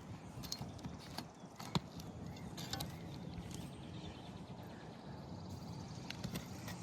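Faint clicks and scrapes of nails being worked out from under roof shingles, a few sharp ticks in the first three seconds, the loudest near the middle of that stretch, then steady faint background noise.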